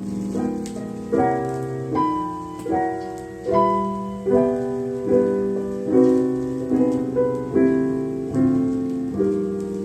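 Solo piano playing the slow introduction to a jazz ballad: sustained chords struck about once every 0.8 seconds.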